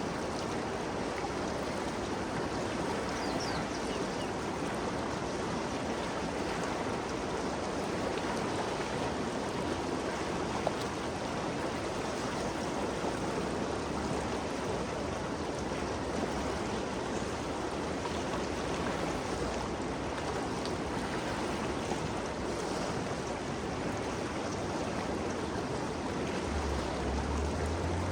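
Steady rushing flow of the Ganges River, an even wash of water noise. Near the end a faint low hum rises slightly in pitch under the water.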